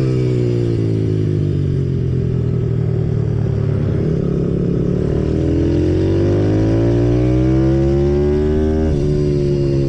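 Symoto 140cc pit bike's single-cylinder four-stroke engine at speed: the revs fall away over the first few seconds, climb steadily from about halfway, then drop sharply near the end with a gear change.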